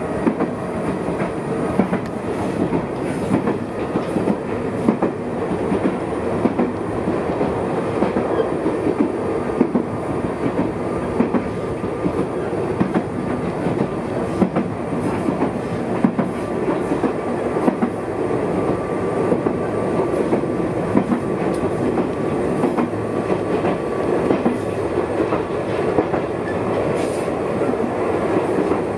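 Ichibata Electric Railway electric train running, heard from inside the carriage: a steady rumble with repeated sharp clicks of the wheels over rail joints.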